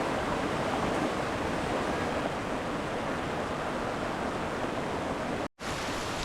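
Stream flowing, a steady rush of water with no let-up, cut off for an instant near the end.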